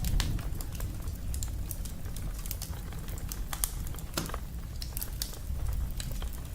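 Wood fire crackling in a fireplace: irregular sharp pops and snaps over a low steady rumble, with one louder pop about four seconds in.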